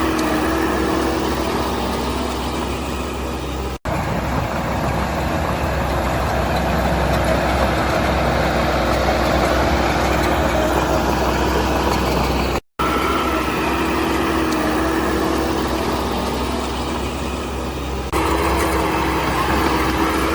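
Diesel engine of heavy earth-moving machinery running steadily. The sound drops out briefly twice, about four seconds in and again about thirteen seconds in.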